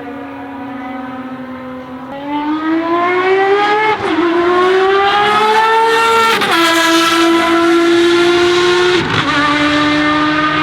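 Ferrari FXX Evoluzione's 6.3-litre V12 racing engine accelerating hard. Its note grows louder and climbs in pitch, dropping sharply at two upshifts. It then holds a steady pitch with a brief dip near the end.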